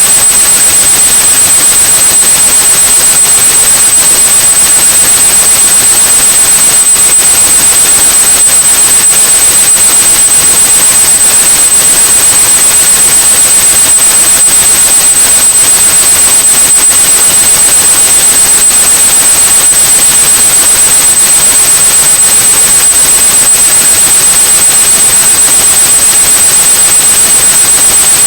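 Steady synthesized white noise hiss with a continuous high-pitched 8100 Hz sine tone over it, unchanging throughout: a tinnitus-masking sound.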